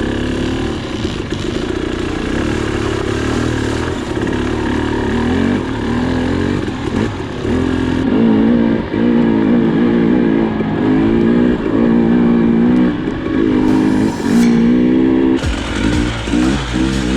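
Dirt bike engine revving up and down as the bike is ridden on singletrack, its pitch rising and falling about once a second.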